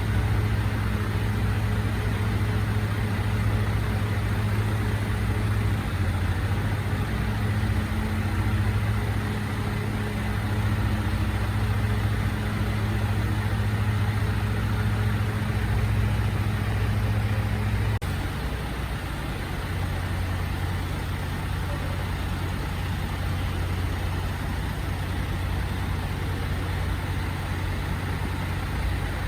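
Recycling truck's engine idling steadily with a low hum; about eighteen seconds in its note drops and it becomes slightly quieter.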